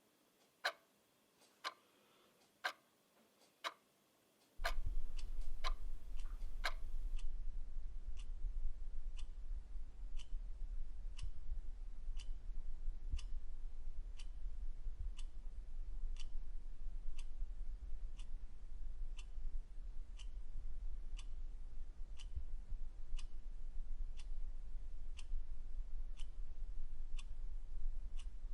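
Clock ticking steadily, about two ticks a second. About four and a half seconds in, a steady low hum comes in underneath the ticking and stays.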